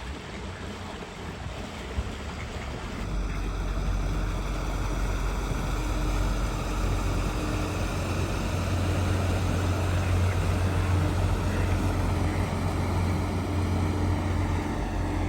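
An engine running steadily with a deep low rumble and a faint hum, over a noisy hiss. The sound grows louder about three seconds in and then holds steady.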